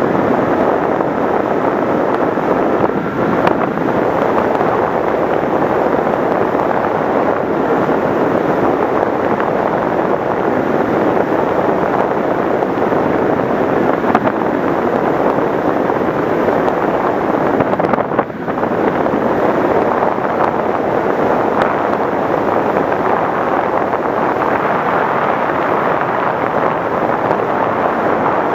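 Steady rushing wind noise on the onboard microphone of an FPV model plane in flight, with a brief dip in level about two-thirds of the way through.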